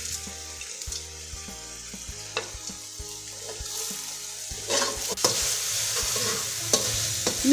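Onions, ginger-garlic paste and whole spices sizzling in hot oil in a metal karahi, stirred with a slotted metal spatula that scrapes and clicks against the pan. The sizzling and scraping grow louder about five seconds in.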